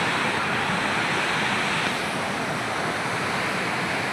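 Floodwater of a swollen river rushing past in a steady, even wash of noise.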